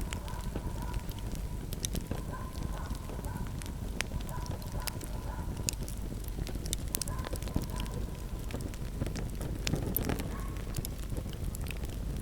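Wood fire burning steadily with a low rumble of flames and frequent sharp crackles and pops scattered throughout, plus a faint wavering whistle that comes and goes.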